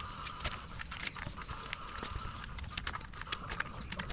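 Irregular sharp clicks and knocks, several a second, with a faint high tone coming and going behind them.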